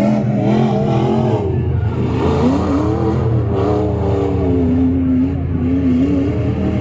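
Modified competition truck engine revving hard, its pitch repeatedly rising and falling as the throttle is worked.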